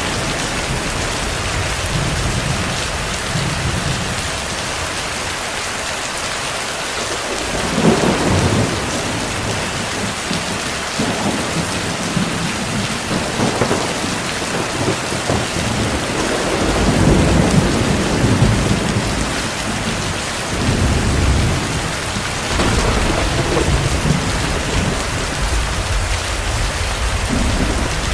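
Heavy rain falling steadily, with rolls of distant thunder rumbling about eight seconds in and again through the second half.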